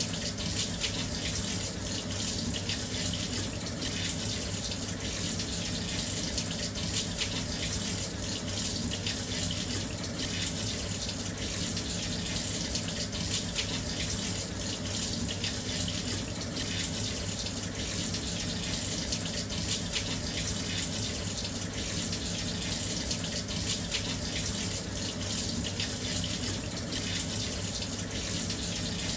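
Washing machine filling with water: a steady, even rush of water pouring in, with no change in level.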